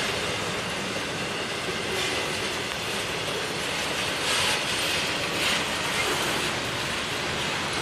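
Double-stack intermodal freight cars rolling past: a steady rumble and clatter of steel wheels on rail, with brief louder high rushes of wheel noise about four and a half and five and a half seconds in.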